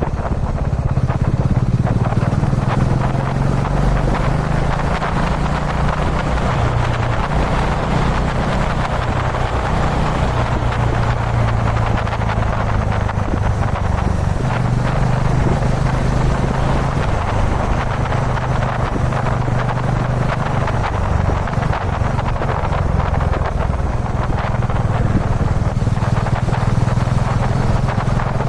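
Kawasaki Dominar 400 UG2's single-cylinder engine running steadily while the motorcycle cruises on an expressway, its note dipping and rising slightly, under a constant rush of wind and road noise.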